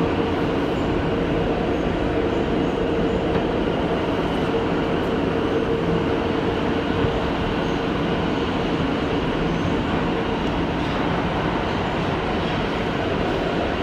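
New York City subway train running between stations, heard from inside the car: a steady rumble of wheels on rail, with a mid-pitched hum that fades out about ten seconds in.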